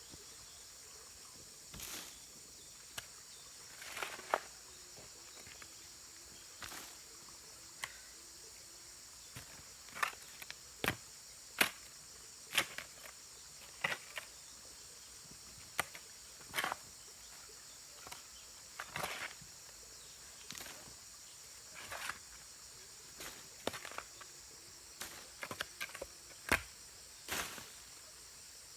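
Steady high-pitched chorus of crickets or other insects, with irregular short knocks and scrapes every second or so.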